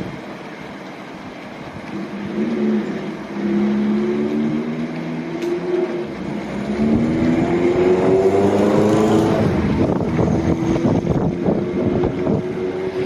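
An automatic gantry car wash machine running over a Daihatsu Copen: the machine's motors whine, rising and falling in pitch, over a steady wash of spraying water and brushes. It grows louder about seven seconds in.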